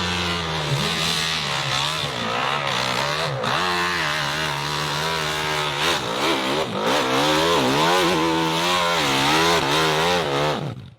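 Motorcycle engine revving hard, its pitch rising and falling unevenly as the throttle is worked, over a steadier lower engine note. It cuts off suddenly at the end.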